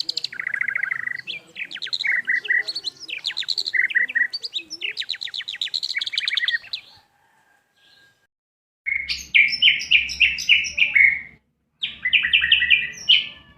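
White-rumped shama (murai batu) singing a varied song of fast, repeated chirping notes, including mimicked calls of other birds. A pause comes about seven seconds in, then two more rapid trilled bursts.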